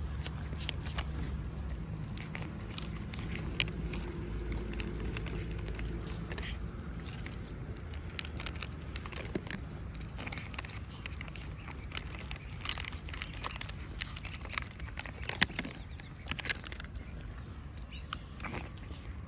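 Cats chewing food, a quick irregular run of small crunches and clicks. A steady low rumble sits underneath.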